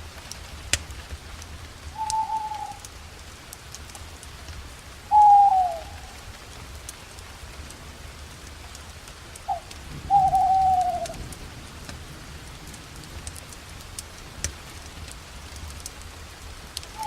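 An owl calling at night: four short whistled hoots that drop slightly in pitch, the loudest about five and ten seconds in, over the steady crackle and snap of a campfire.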